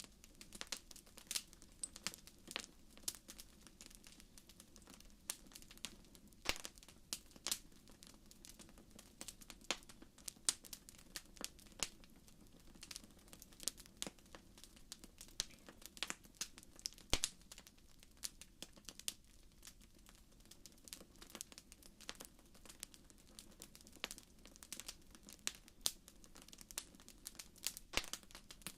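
Wood fire in a fireplace crackling, with irregular sharp pops and snaps several times a second over a faint low steady background.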